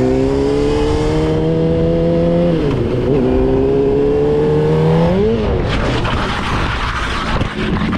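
Motorcycle engine accelerating hard, its revs climbing, dipping briefly about three seconds in, then climbing again. Past the middle the revs waver and drop away and a harsh scraping, rushing noise takes over as the bike goes down after losing grip on spilled oil.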